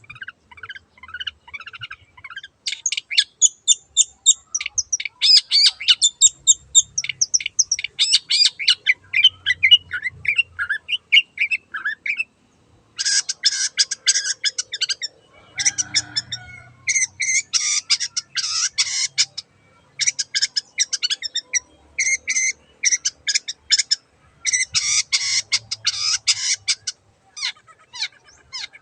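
Long-tailed shrike (cendet) singing: fast runs of high, sharp chattering notes in bouts broken by short pauses.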